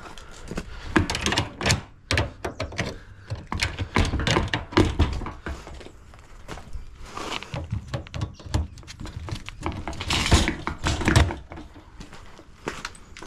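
Irregular knocks, clanks and scraping of tools working on a dishwasher's door hinge to free its hinge pin, with louder clusters of clatter about a second in, around four seconds in and near ten seconds.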